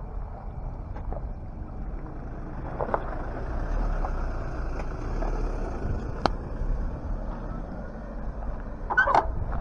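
Steady rumble of wind and rolling tyres from a bicycle ride along a road, with a sharp click about six seconds in and a short rattle near the end.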